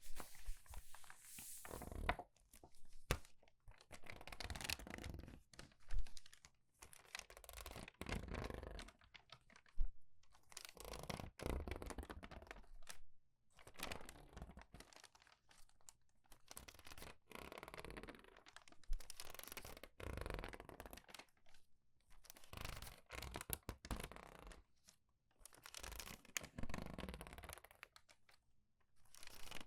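Pre-crumpled paper pages being turned quickly and squeezed by hand: a run of crinkling rustles, each about a second long, with short pauses between.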